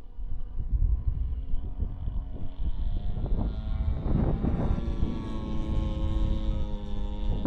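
RC Piper Cub's G26 two-stroke gas engine driving an 18x8 propeller, its note rising about three seconds in and then holding steady, with wind rumble on the microphone.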